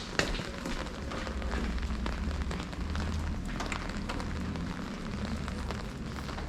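Rain falling on hard street surfaces, with many small drop ticks over a steady hiss and a low rumble underneath. There is a sharp tick just after the start.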